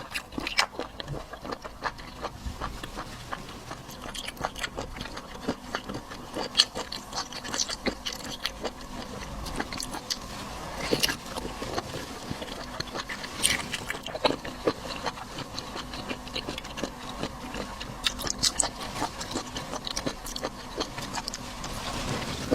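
Close-up eating sounds of someone chewing a springy sea cucumber: irregular wet clicks and smacks of the mouth, some louder than others.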